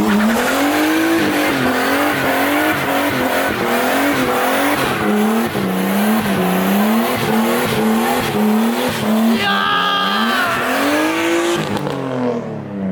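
Car doing a burnout: the engine revs up and down over and over, about twice a second, over a steady tyre squeal. Near the end it revs higher, then drops off suddenly.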